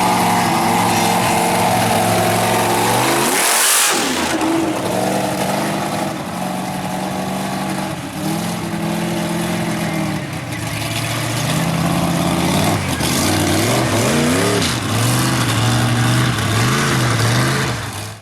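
Mud truck engine on tractor tires running loud and revving, its pitch rising and falling again and again, with a short break in the sound about three and a half seconds in.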